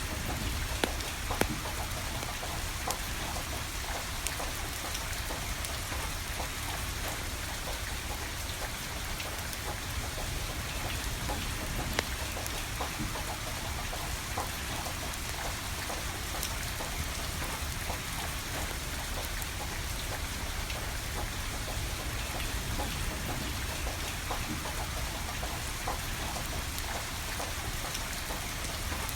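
Steady rain falling, with a wood fire crackling through it in scattered sharp pops; a few louder pops come about a second in and about twelve seconds in.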